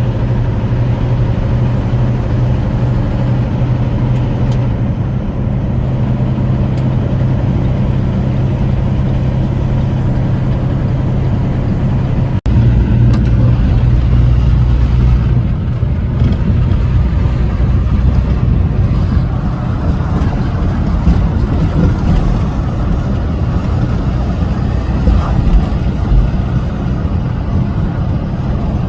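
Semi truck's diesel engine running at steady speed with road noise, heard from inside the cab. About twelve seconds in it cuts out for an instant, and afterward it comes back louder with a deeper rumble.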